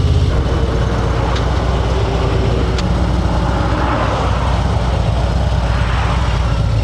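Harley-Davidson Ultra Limited's V-twin engine running steadily while the motorcycle is ridden, with road and wind noise. Its loping, pulsing beat evens out about a third of a second in.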